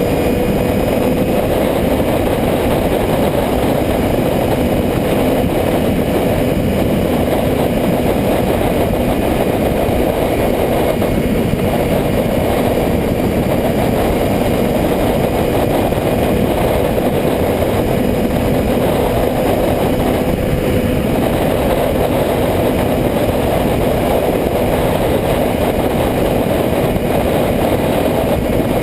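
Motorcycle engine running at a steady pitch under a loud, even rushing noise.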